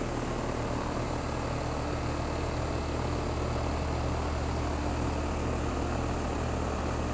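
Central air-conditioner condensing unit running steadily, its compressor humming low under the whirr of the condenser fan.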